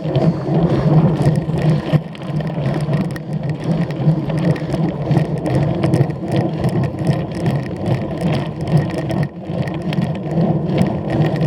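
A cyclocross bike ridden hard over a rough course: steady tyre-on-ground rumble with many quick clicks and rattles from the chain and frame.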